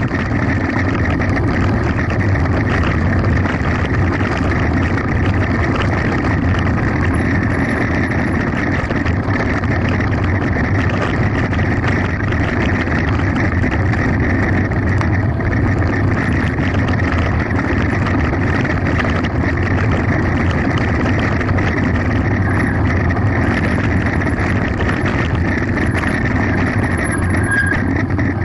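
Mountain bike descending at speed: a steady rush of wind on the microphone over a constant rattle of tyres and bike on rough gravel.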